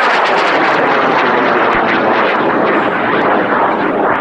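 High-power rocket motor, a CTI M2245 Imax M-class motor, burning at liftoff: a loud, steady rushing roar with a fine crackle, easing slightly near the end.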